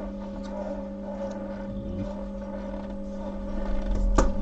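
Phone parts being handled on a repair bench over a steady electrical hum, with faint ticks and one sharp click about four seconds in.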